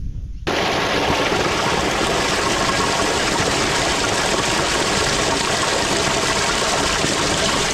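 Small stream flowing steadily, a constant rush of running water that starts abruptly about half a second in. Before it, a brief low rumble of wind on the microphone.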